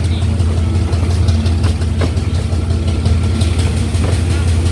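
Steady low rumble of a passenger train heard on board, with a few faint clicks about two seconds in and again near the end.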